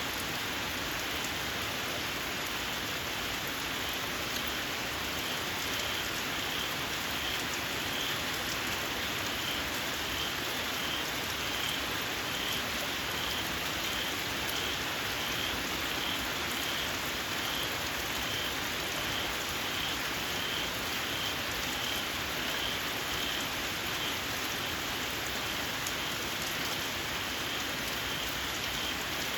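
Steady rain falling, with a small frog repeating a short, high-pitched squeaky call a little over once a second.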